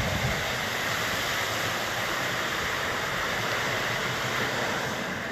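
A steady, even rushing noise with no distinct events, like flowing water.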